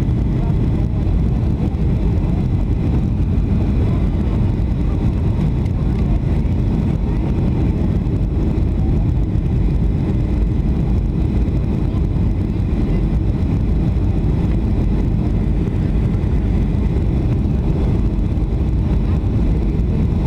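Steady cabin noise inside a Boeing 757-300 in flight: an even, low rumble of the engines and airflow heard from a seat in the rear cabin, unchanging throughout.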